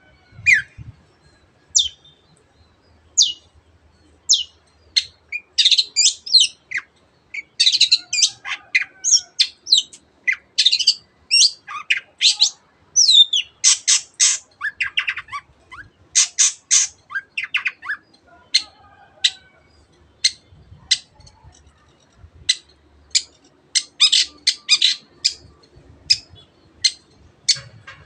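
Long-tailed shrike singing: short, sharp high notes, at first about one a second, then a dense stretch of rapid, varied phrases in the middle, then sharp single notes again near the end. Its song mixes in imitations of other birds, canary among them.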